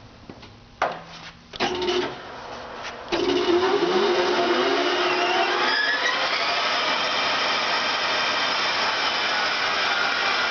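Jet 24" x 120" gap-bed engine lathe starting up under power: a few clicks of the controls and a hum, then about three seconds in the spindle and gear train spin up with rising whines and run on with a loud, steady mechanical noise.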